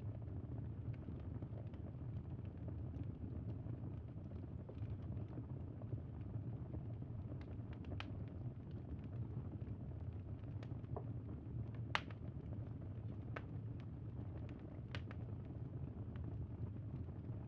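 Campfire burning: a steady low rumble with a few sharp, scattered crackles and pops, the loudest about twelve seconds in.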